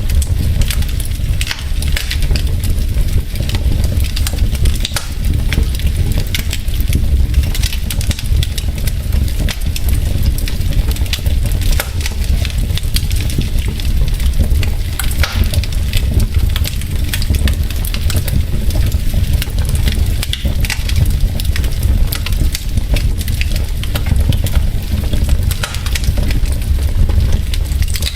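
Wood fire burning in a fireplace: logs crackling with frequent small, irregular pops over a steady low rumble.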